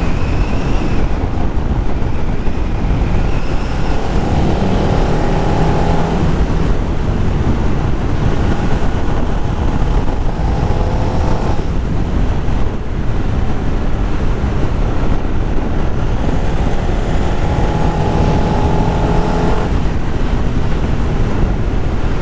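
2011 Ducati Multistrada 1200 S V-twin engine pulling under load, with heavy wind noise on the microphone. Three times the engine note climbs for about two seconds as the bike accelerates. The engine is down on power and will not rev freely past mid-range because its exhaust valve is seized.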